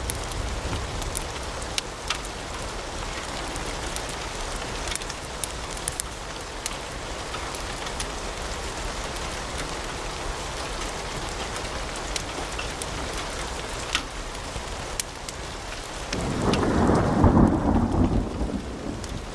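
Wood fire in a fireplace crackling: a steady hiss with sharp pops and snaps scattered throughout. About three-quarters of the way through, a louder low rumbling swell rises and holds.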